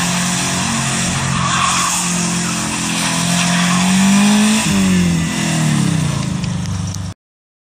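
1993 Subaru Legacy wagon's flat-four engine revving hard as it spins donuts on snow, with the hiss of its tyres spinning in the snow. The revs climb slowly, then fall away in several downward sweeps before the sound cuts off suddenly near the end.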